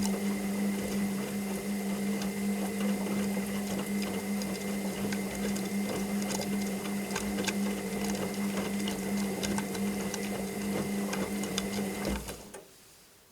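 Washing machine running: a steady motor hum with a high whine and light clicking and rattling, which cuts off suddenly about twelve seconds in.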